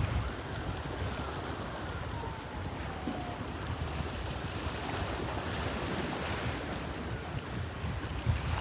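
Bosphorus sea waves washing steadily, with wind rumbling on the microphone.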